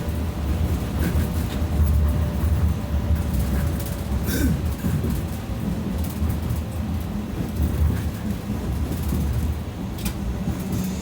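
BKM 60102 tram running along the track, heard from inside the car: a steady low rumble of wheels on rails with a faint steady tone. Two sharp clicks come about four and ten seconds in.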